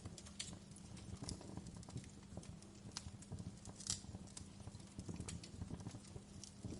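Wood fire crackling: irregular pops and snaps over a low, steady rumble of burning logs, with one sharper pop about four seconds in.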